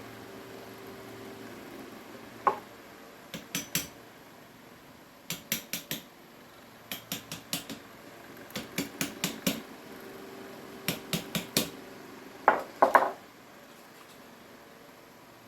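Small hard clicks and metallic clinks in quick clusters of two to six, as small metal parts and tools are handled. The loudest cluster comes near the end.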